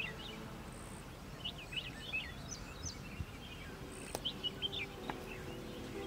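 Birds chirping and twittering in short, high, scattered calls over a soft outdoor background hiss, with a couple of sharp clicks midway.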